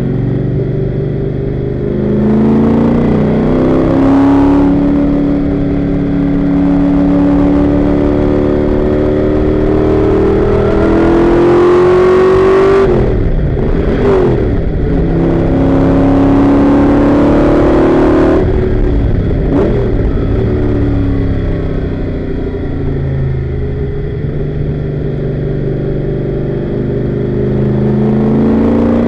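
Daytona Coupe race car's engine running hard on track, its revs climbing and falling through the gears. About thirteen seconds in, the note breaks up and the revs drop sharply and unevenly for a second or so, which the title calls a missed shift.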